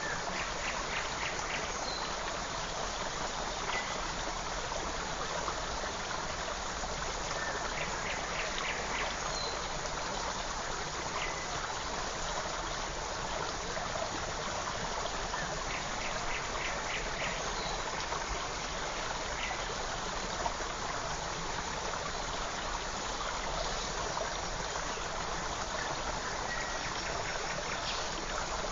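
A forest creek flowing steadily, a constant rushing trickle of water. Small birds call over it: three quick series of rapid chirps and a few short whistled notes.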